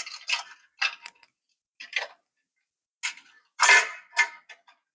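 A stainless steel hose clamp being opened up again on a motorcycle exhaust header: a string of irregular metallic clicks and short scrapes, the loudest a little past halfway.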